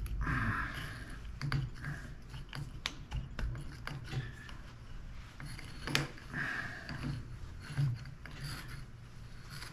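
Irregular metallic clicks, scrapes and ratcheting as long-nose locking pliers grip and twist a corroded battery stuck inside a Maglite's aluminium barrel, working it loose.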